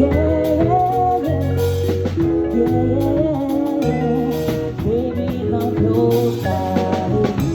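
A live band playing music with a bass line, drums and a melodic lead, without sung words.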